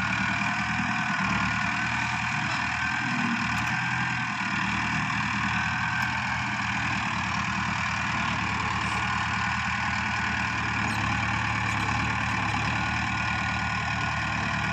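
Tractor's diesel engine running steadily, with a thin high whine above it that wavers in pitch over the first few seconds and settles near the end.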